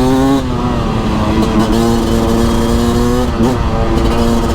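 Beta RR 300 single-cylinder two-stroke enduro engine pulling at steady revs under throttle. The revs drop briefly about three and a half seconds in, then pick up again.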